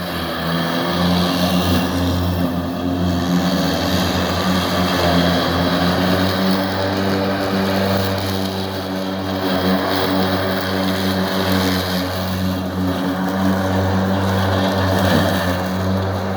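Riding lawn mower running steadily as it drives, a constant low hum with a stack of steady overtones and mower noise over it.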